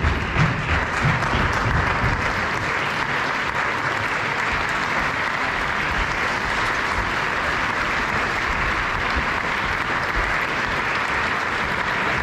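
Audience applauding steadily, with a few low thuds in the first second or so.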